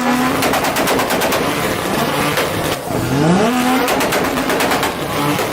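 Turbocharged sports car engine revved hard twice, rising in pitch each time. After each rev comes a rapid string of exhaust pops and crackles.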